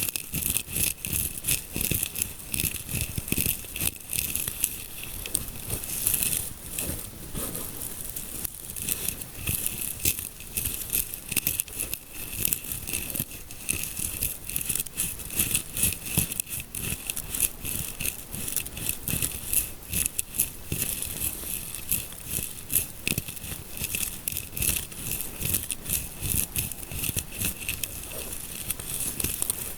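Close-miked fingers scratching and rubbing in a scalp massage, a dense crackly rustling of many fine scratches without pause.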